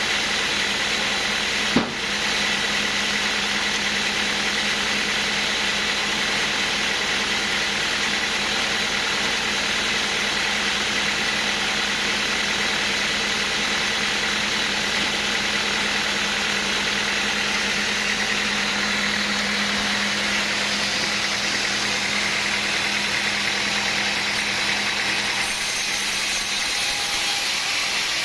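Engine-driven machinery running steadily with a constant hum, with one sharp click about two seconds in.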